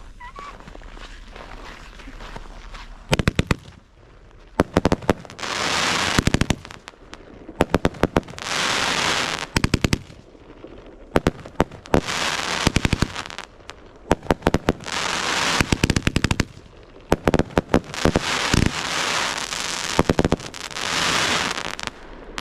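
Fireworks going off: rapid volleys of sharp crackling pops alternating with spells of loud fizzing hiss, starting about three seconds in.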